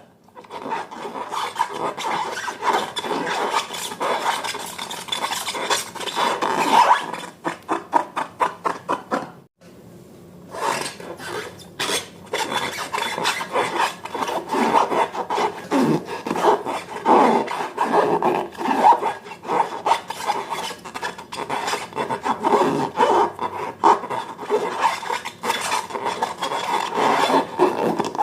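Slime being stirred and kneaded by hand: continuous rapid sticky crackling and squelching, with a brief pause about nine and a half seconds in.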